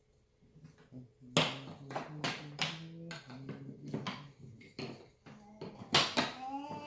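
Wooden toy railway track pieces clacking and knocking together in a series of sharp taps. The taps start about a second and a half in, and the loudest comes near the end.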